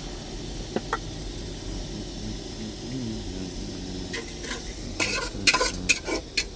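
A metal spoon stirring and clinking against a cooking pot over low background noise, with a quick run of sharp clinks in the last two seconds.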